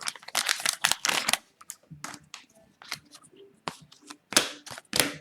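Hockey trading cards being handled: a dense rustle for about the first second and a half, then scattered sharp clicks and snaps, the loudest two near the end.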